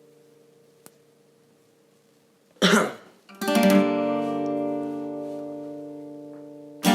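Acoustic guitar: a chord fades away, then about two and a half seconds in a quick strum is followed by a full chord that rings out and slowly decays, with another strum at the very end.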